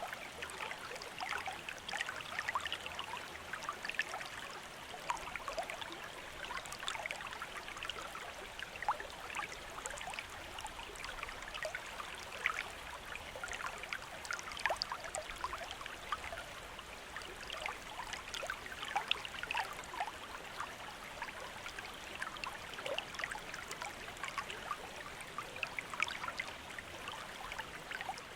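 A shallow river or stream running over stones: steady rushing water with many small splashes and trickles throughout.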